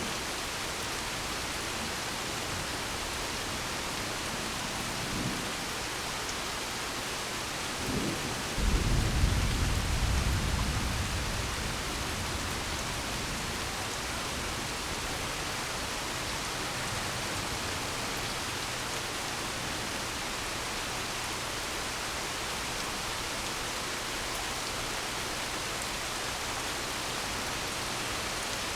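Steady rain hiss through the whole stretch, with a sharp clap of thunder about eight and a half seconds in that rumbles and fades over the next few seconds; a faint low rumble comes a few seconds before it.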